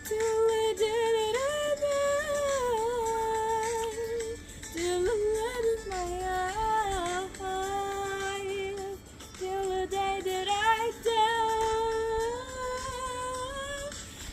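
Wordless female singing: a slow melody of long held notes with a wavering pitch, over faint music.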